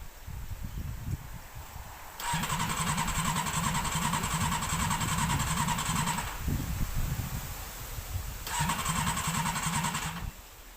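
Honda race-mower engine being cranked for a start, twice: a steady mechanical whir lasting about four seconds, a short break, then another second and a half. It stops suddenly without the engine catching.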